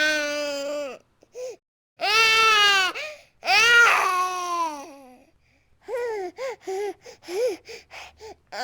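A baby crying hard: long, high, sustained wails with short gasping pauses between them, breaking into a run of short, choppy sobbing cries near the end.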